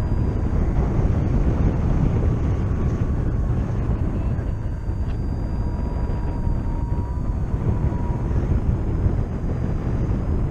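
Airflow buffeting the microphone of a paraglider in flight: a steady low rush of wind, with faint thin tones wavering high above it.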